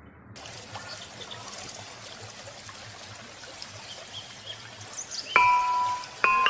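A steady hiss like trickling or pouring water, with faint small ticks. About five seconds in, a run of bright chime notes in the style of a glockenspiel starts, louder than the hiss.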